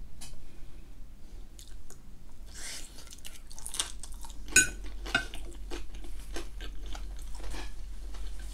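Close-up chewing of a mouthful of ham gratin with a crumbly breadcrumb and cheese topping: irregular small wet crackles and clicks of the mouth, with one sharper click about halfway through.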